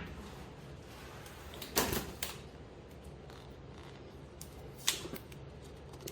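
Small prize boxes being handled and set down: a few scattered light knocks and clicks, the loudest pair about two seconds in and another pair near five seconds.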